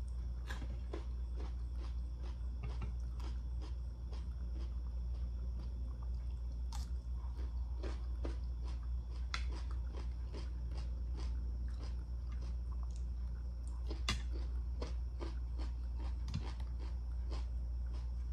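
Close-miked chewing and biting: many irregular crisp crunches as raw cucumber slices are eaten, over a steady low hum.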